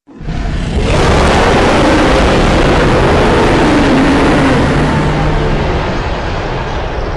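A designed monster roar sound effect: one long, loud, rumbling roar that swells in within the first second, sinks in pitch around the middle, and slowly weakens near the end.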